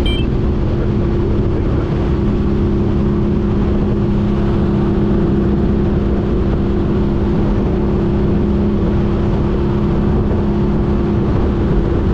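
Harley-Davidson V-Rod Night Rod's liquid-cooled V-twin engine running steadily at highway cruising speed, its pitch unchanging, under heavy wind rush on the microphone.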